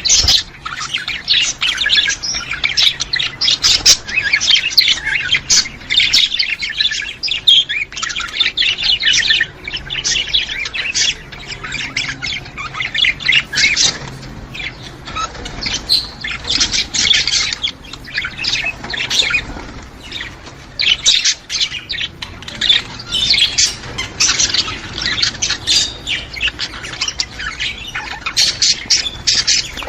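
A flock of budgerigars chattering: continuous fast warbling mixed with chirps and squawks, with no pauses.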